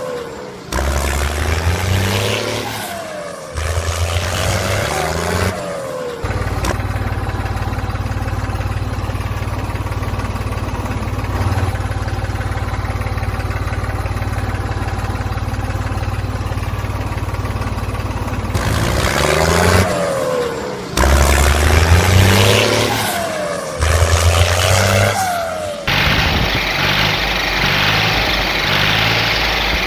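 Small tractor engines running, the pitch rising and falling in stretches, with a steadier hum in the middle.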